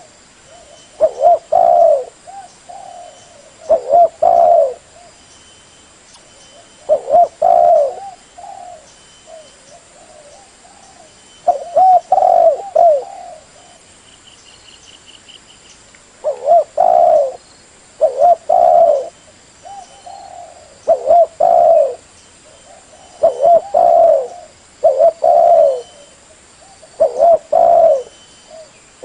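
Spotted dove (terkukur) cooing: short, repeated coo phrases, a group every two to three seconds, with brief pauses between.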